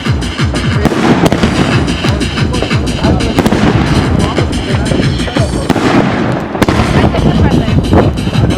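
Fireworks going off in rapid, dense succession: a continuous run of crackling bangs with no single standout boom. Music plays underneath.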